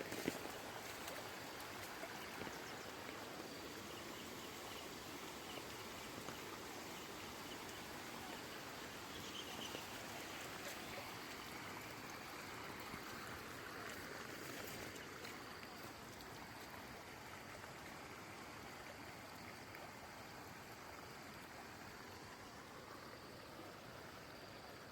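Floodwater running steadily in a continuous rushing stream, easing a little in the second half.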